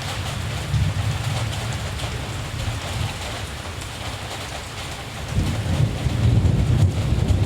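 Steady rain falling, with a low rumble of distant thunder underneath that swells louder about five seconds in.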